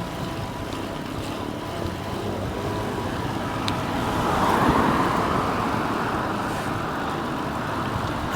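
Road traffic noise, with one car passing close by that swells and fades about halfway through, over a steady rush of road noise.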